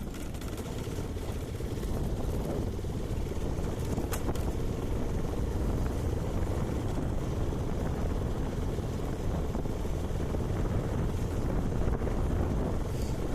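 Wind rushing over the microphone of a moving motorcycle: a steady low rumble with no clear engine note standing out, growing a little louder after the first couple of seconds.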